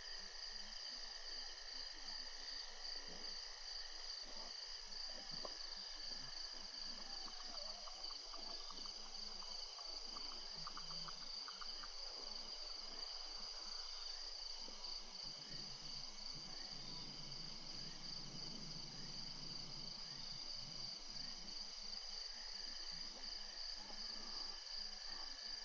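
Steady chorus of night insects holding several high, even tones throughout. Faint clicks and rustles come through in the middle, and a low rumbling noise rises and fades about two-thirds of the way in.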